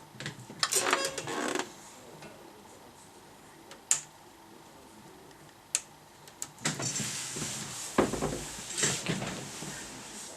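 Handling noises: a short burst of clattering about a second in, two single sharp clicks a little later, then a longer stretch of clatter and scraping near the end.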